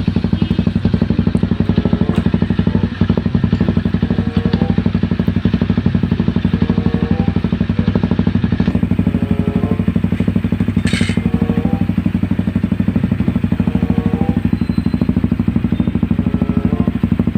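Honda CRF250L's water-cooled single-cylinder engine idling steadily through a newly installed aftermarket full-system exhaust with a large canister, with a rapid, even exhaust beat.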